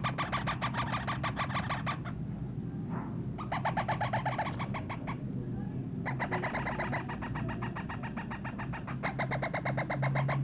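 Baby parrot giving rapid, pulsed begging calls in three bouts, the chick's food-begging response while being hand-fed.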